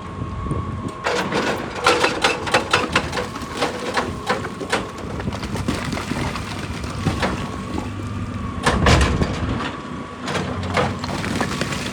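Excavator working rock: the engine runs steadily with a thin steady whine, while rock cracks and clatters in a quick irregular run of sharp knocks for several seconds, then a heavier crunch about nine seconds in.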